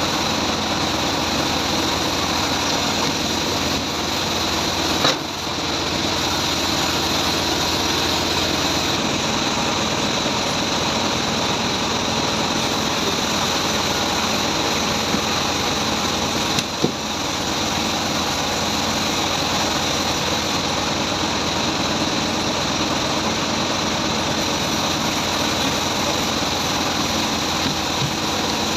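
Band sawmill running steadily with a continuous hiss and whine. There is a brief knock about five seconds in and another about seventeen seconds in.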